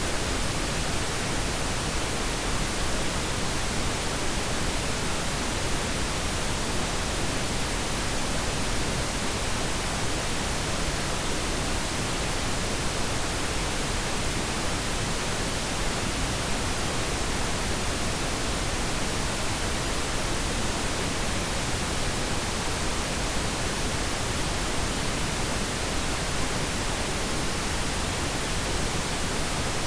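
Steady pink noise: an even, unchanging hiss across all pitches, weighted toward the low end, softer than white noise.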